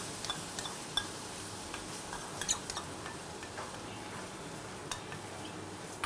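A spoon stirring in a pan, with scattered sharp clinks and scrapes against the metal over a steady frying sizzle from the onion, spice and tomato-puree curry base.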